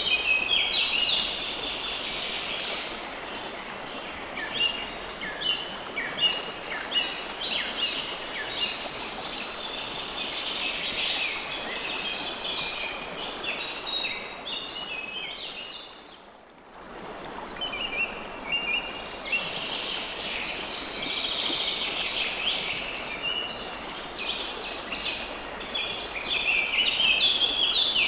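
Many birds chirping in quick, busy bursts over the steady rush of flowing river water. About halfway through, the whole sound fades down briefly and then comes back.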